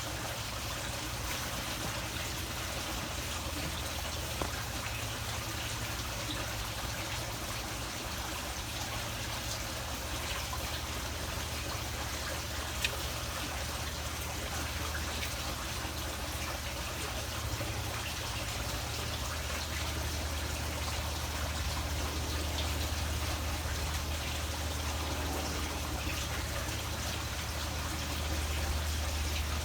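Water trickling steadily, with a low rumble that grows stronger in the second half and two brief clicks.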